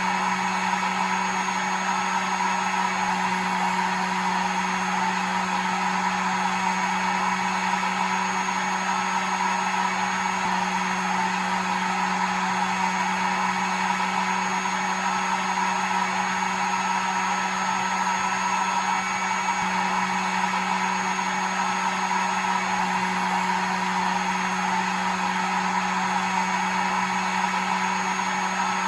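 Hair dryer running steadily, a constant airy rush over a low motor hum with a faint high whine.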